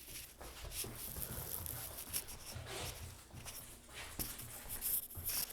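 Faint, irregular scuffling and scratching: a puppy's paws scrambling as it jumps and chases side to side.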